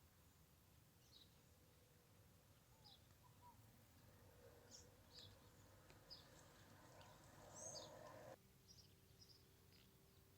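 Near silence with faint, scattered short bird chirps, and a faint hiss that cuts off suddenly about eight seconds in.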